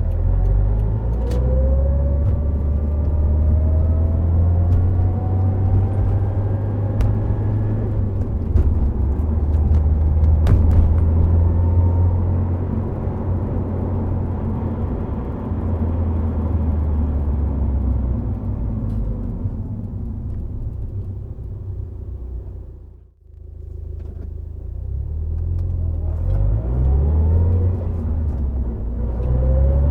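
Subaru Impreza WRX STI Spec C's turbocharged flat-four with an A-RM aftermarket muffler, driving at speed with a deep low rumble. The engine note climbs as it accelerates over the first several seconds and again near the end, and eases off in between. The sound briefly drops almost away about three-quarters of the way through.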